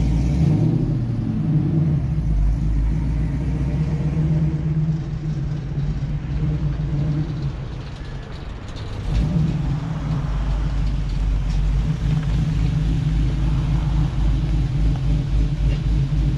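Cammed LS V8 in a 1985 Chevy K10 pickup running through headers and dual Flowmaster exhaust, heard from inside the cab while driving. The engine note climbs in pitch in the first second or so, then holds steady, eases off about halfway through and picks back up with a pulsing low rumble.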